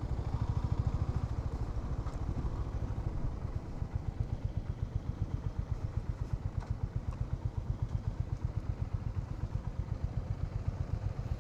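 Honda H'ness CB350's single-cylinder engine running at low revs with an even, rapid beat of firing pulses, the bike moving slowly over a road with no surface. A few faint clicks sound over it.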